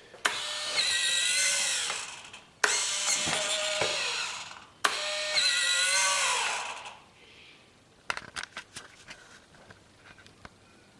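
Small electric servo motors in an RC model warbird's wing whining as they drive the moving surfaces, in three runs of about two seconds each, the pitch dropping as each run stops. A few light clicks follow.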